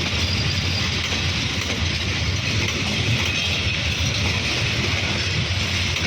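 Steady running noise of a moving passenger train: a continuous low rumble with a hiss of wheels and rails.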